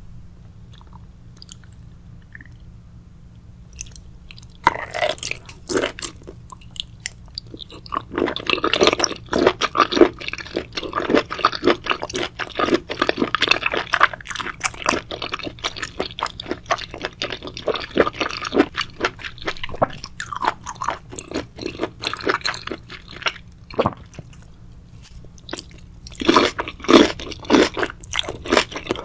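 A person chewing crunchy food close to the microphone: rapid crisp crunches and mouth clicks begin about five seconds in, pause briefly near the end, then resume.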